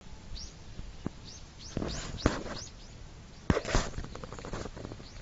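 Small birds chirping: a string of short chirps that fall in pitch, with sharp knocks and a brief clatter of handling noise about two and three and a half seconds in.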